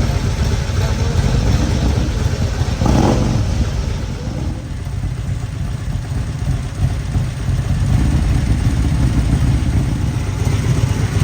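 Motorcycle engines running with a steady low rumble, swelling briefly about three seconds in.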